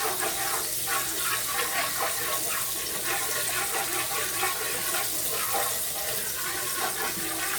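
Chicken frying in a pan with barbecue sauce, a steady sizzle full of small crackles and pops.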